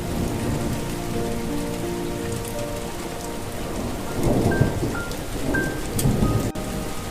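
Steady rain falling, with a low thunder rumble swelling about four seconds in, under a soft melody of slow held notes.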